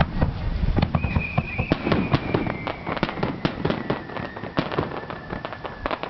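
Fireworks bursting: a rapid run of sharp cracks and pops from crackling shells, with a thin whistle that slides slowly downward in pitch from about a second in until near the end.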